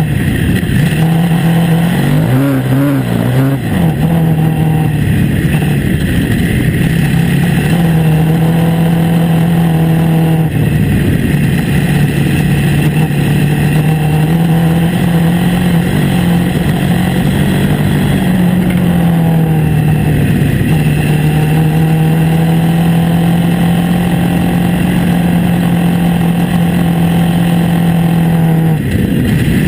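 KTM 950 Adventure S's V-twin engine running under way at steady cruising revs. The revs waver near the start, dip briefly about a third of the way in, shift again past the middle and drop briefly near the end.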